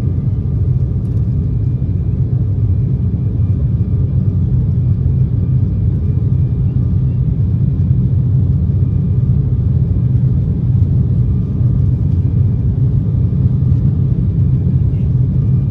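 Steady low cabin rumble of an Embraer 190 airliner, with its General Electric CF34 turbofans whining faintly as a few thin steady tones above the rumble.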